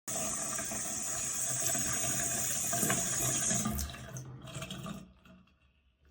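Water running from a single-lever waterfall bathroom faucet into the sink basin, a steady rushing hiss that stops about four seconds in and dies away over the following second.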